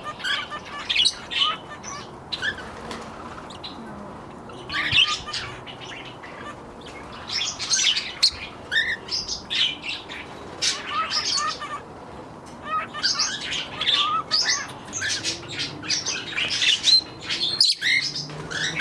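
A mixed group of small pet parakeets (budgies, Bourke's parakeets, a lovebird and a turquoisine) chirping and squawking in short, irregular bursts, over a steady low background noise.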